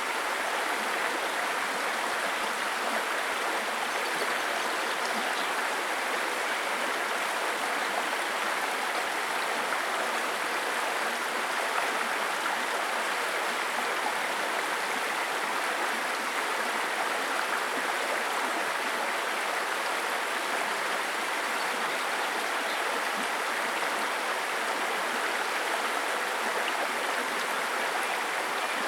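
Babbling brook: a steady, even rush and burble of shallow water running over stones.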